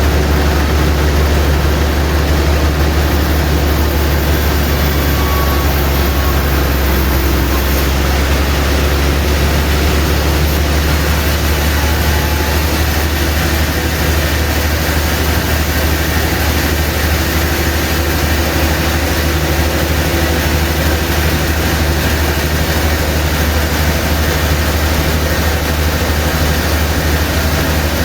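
Sawmill machinery running steadily, with a strong low hum under a constant rush of noise.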